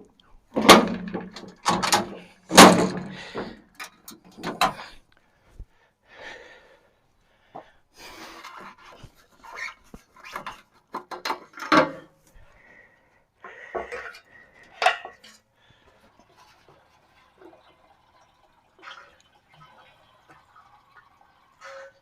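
Irregular knocks, clunks and scrapes, as of things being handled and set down; the two loudest come about one and three seconds in, then fainter scattered ones follow.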